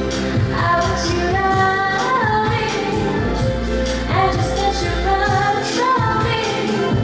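A live pop song: a woman singing a gliding melody over the band's accompaniment, with steady low bass notes and a regular beat.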